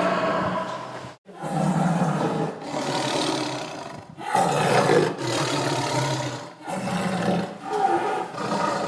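Tiger roaring: a run of long, deep roars, each lasting a few seconds, with short breaks between them.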